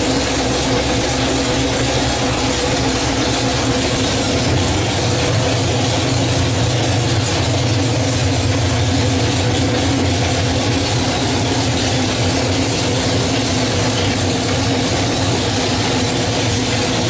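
Ford 347 stroker small-block V8 running steadily, its low note growing fuller about four and a half seconds in.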